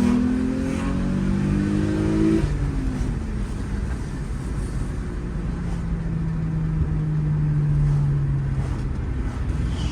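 Toyota 2GR-FSE 3.5-litre V6 running through a stainless valvetronic exhaust with a single tip, heard on the move. The engine note climbs under throttle, drops away about two and a half seconds in, then settles to a lower steady drone that slowly falls in pitch.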